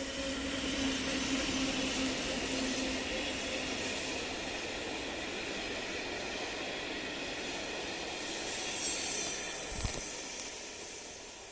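Passenger train hauled by an EU07 electric locomotive passing, a steady rush of wheels rolling on the rails with a faint tone that fades out in the first few seconds. A single knock comes near the end, and the sound fades slightly before cutting off abruptly.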